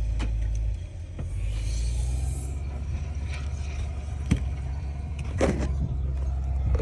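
Heavy diesel engine of earthmoving machinery running steadily with a low drone, easing off briefly about a second in, with a few sharp metallic clanks, the loudest about four and a half seconds in.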